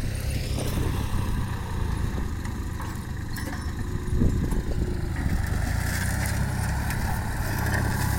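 Kubota L3408 tractor's diesel engine running steadily under load as it ploughs a rice paddy with a disc plough, with scattered knocks. The soil is hard and dry.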